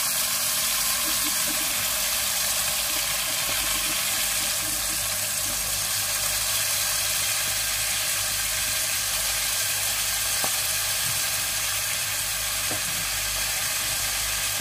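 Livers sizzling steadily as they fry in hot oil with garlic in a stainless steel pot.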